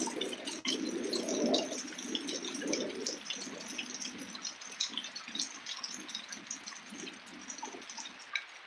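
Heavy rain pouring down at night, many separate drops ticking and splashing close by; it grows gradually quieter over the few seconds.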